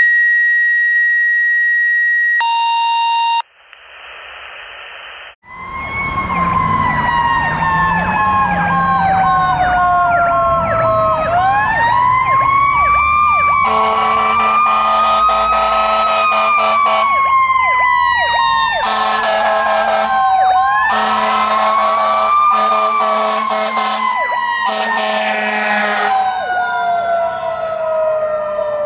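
Fire engine and ladder truck sirens on an emergency response. A wailing siren winds up and slowly falls in pitch, twice rising again, over a fast electronic yelp, with repeated air horn blasts through the middle. The first few seconds hold steady electronic tones and a hiss instead.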